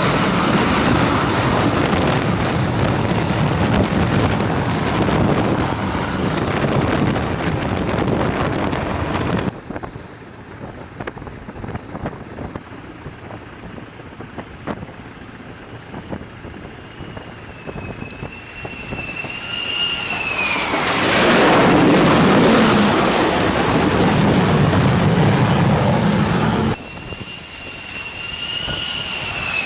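Jet aircraft engine noise in several spliced clips. A loud jet roar cuts off suddenly about nine seconds in, followed by a quieter stretch. A high turbine whine then bends down in pitch as a jet passes, leading into another loud roar that stops abruptly, and the whine returns near the end.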